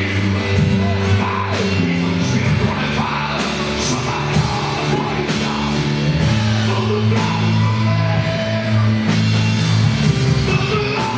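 Live gospel band playing loudly: drum kit, bass guitar and piano, with a voice singing over them. The bass holds notes that change every second or two under steady drum hits.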